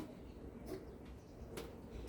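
Two faint, short clicks, almost a second apart, against low room noise: light knocks from handling things while cleaning.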